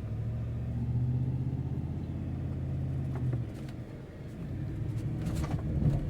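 Ford F-150 pickup's engine running under low-speed load while crawling up a steep off-road trail in four-wheel drive, a steady low rumble that eases about four seconds in and then picks up again. A few short knocks come near the end.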